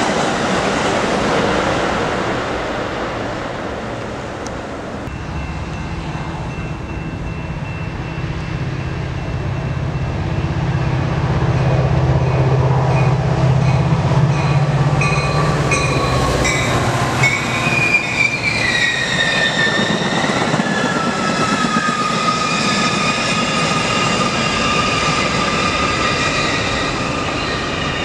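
Train passing on the rails, with a steady deep hum through the middle and a run of even clacks over the rail joints. Near the end, several high squealing tones slide downward in pitch: wheel flanges squealing against the rails.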